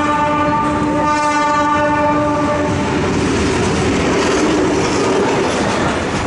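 Pakistan Railways diesel locomotive sounding its horn in one long blast for about the first two and a half seconds, then the locomotive and its passenger coaches passing close by, wheels running on the rails.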